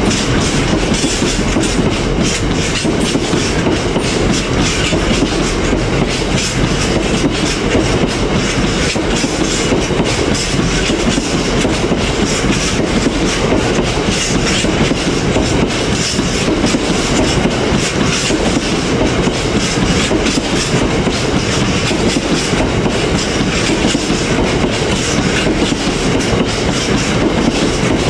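Freight train of loaded-or-empty bogie box wagons rolling steadily past at close range, the wheels clattering continuously over the rail joints with a dense stream of clicks and rumble.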